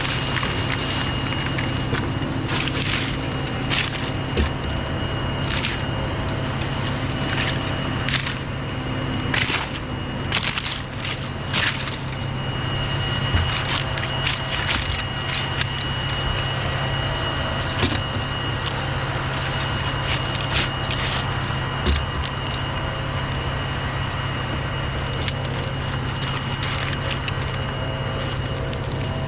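A steady low engine hum throughout, with frequent short sharp cracks and snaps, typical of palm fronds and boots being cut and broken off.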